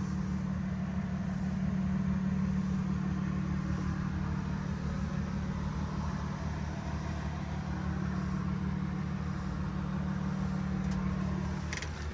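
A motor running steadily with a low, even hum over a faint hiss; the hum drops away near the end.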